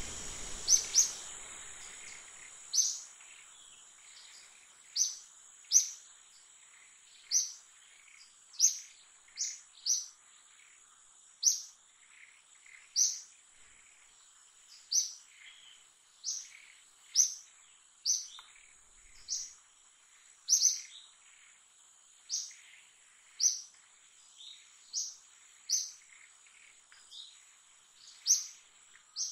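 A bird's short, sharp high chirps, repeated every second or two, over a steady high-pitched whine in the background.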